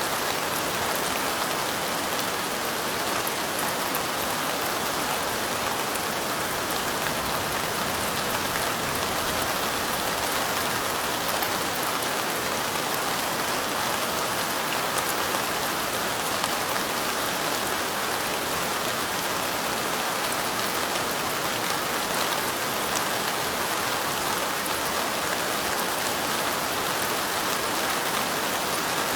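Steady light rain falling, a dense, even patter of drops that holds constant throughout.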